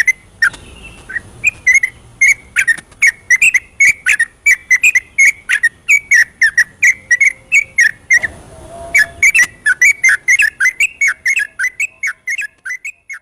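Yellow-vented bulbul singing a fast, continuous run of short whistled notes, about three to four a second. This is the rapid 'ropelan' chatter of a bird in full song. The notes pause briefly about eight seconds in, then run on and fade near the end.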